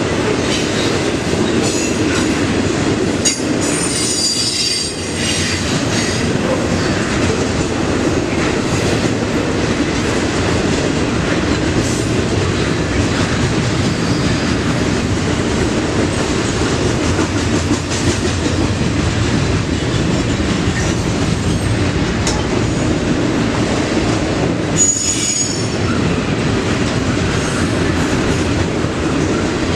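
Freight train cars rolling steadily past on the rails, with wheel flanges squealing high and briefly twice: around four seconds in and again near twenty-five seconds.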